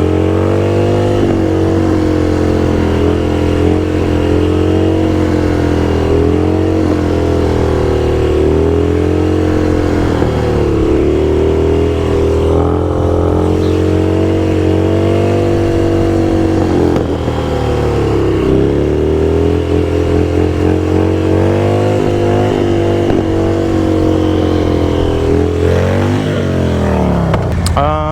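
Motorcycle engine running under way, its pitch rising and falling gently with the throttle, then dropping steeply near the end as the bike slows down.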